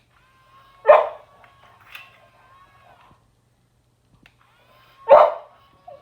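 Boxer dog barking: two single loud barks about four seconds apart, with a faint steady whine underneath.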